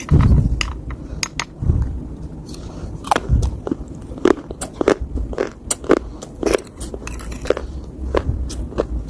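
Close-up biting and chewing of dry, crumbly clay and soil, a run of brittle crunches and crackles with a few low thuds among them.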